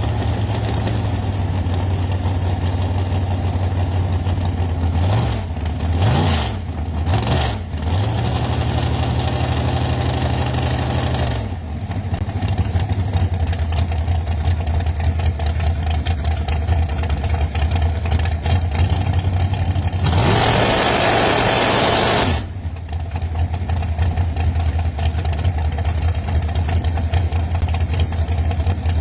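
A car engine running close by, idling steadily and revved briefly a few times about five to eight seconds in. A loud, brief rush of noise comes about twenty seconds in.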